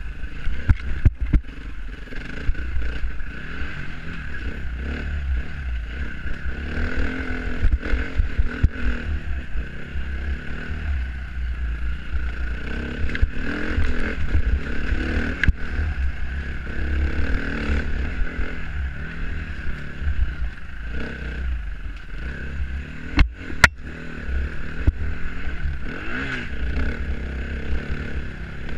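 Dirt bike engine running under load on an enduro trail, its pitch rising and falling as the throttle is worked, with a deep rumble and scattered knocks and clatter, the loudest a pair of sharp knocks about two-thirds of the way through.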